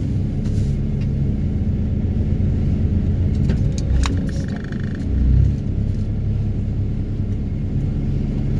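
Excavator-mounted hydraulic vibro hammer and excavator engine running in a steady low drone while pulling a steel sheet pile that is slow to come out, with a few sharp clicks about halfway through.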